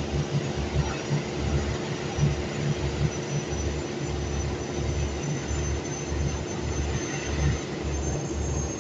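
Heavy unloading machinery running steadily, with a low rumble that pulses unevenly and a steady hum.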